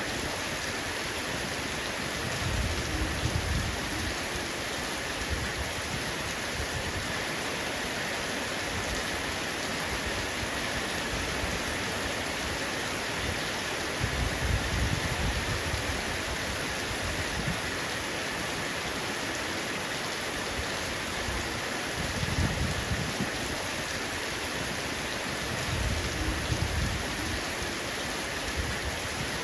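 Heavy rain falling steadily on a roof, a dense even hiss, with low rumbles swelling up briefly a few times.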